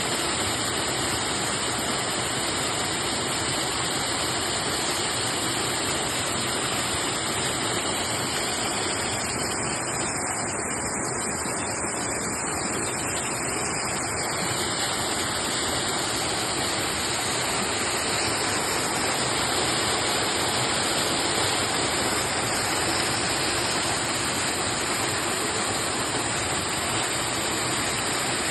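Waterfall: water pouring down in a steady, unbroken noise.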